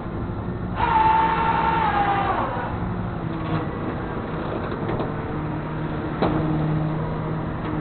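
Vehicle engine running steadily, with a sudden loud mechanical whine about a second in that slides slightly down in pitch and fades after about a second and a half, then a few sharp clicks.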